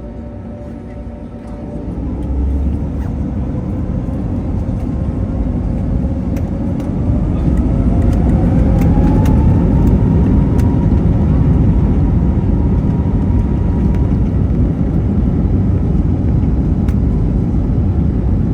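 Airbus A321neo's Pratt & Whitney PW1100G geared turbofan engines spooling up to takeoff thrust. The rumble swells about two seconds in, and a whine rises in pitch over several seconds, then holds steady and loud.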